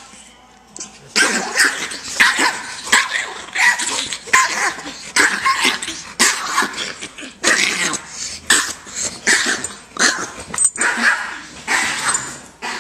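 Two dogs, one big and one small, tussling, with rapid barks, growls and yips starting about a second in and running on in quick succession.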